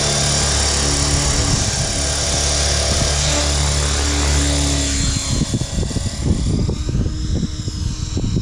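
Radio-controlled model helicopter hovering, its rotor and motor giving a steady hum with a high whine. About five seconds in the steady tone weakens and wind buffets the microphone in irregular gusts.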